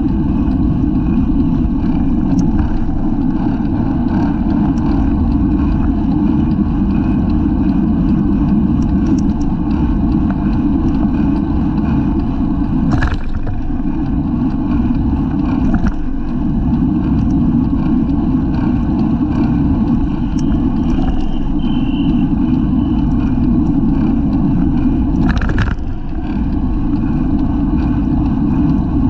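Wind rushing over a bicycle-mounted camera's microphone while riding at race speed, a loud, steady low rumble. Two short knocks sound, about halfway through and again near the end.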